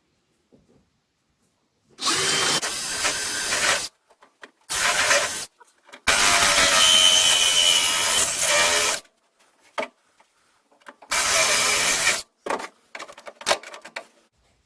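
Power drill with a spot-weld cutter bit drilling out spot welds in a car's sheet-steel seat pan. It runs in four bursts: about two seconds, a short one, a longer run of about three seconds with a steady high squeal, then a short one near the end. Light clicks fall in the pauses between the bursts.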